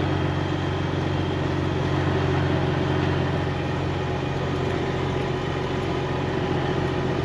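Semi truck's diesel engine running steadily at low speed, a low even drone.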